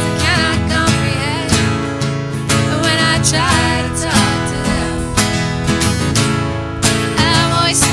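Live acoustic music: an acoustic guitar strummed in a steady rhythm, with a wavering melody line, likely a voice, over it.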